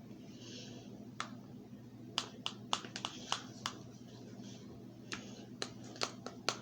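Spoons clicking and tapping against cups as pudding is scooped in: a string of sharp, irregular clicks. They start about a second in and come in clusters after that.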